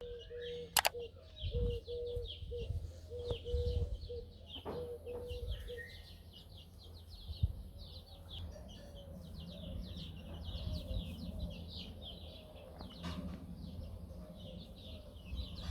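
Many small birds chirping rapidly and continuously, with a low, pulsing hum during the first six seconds.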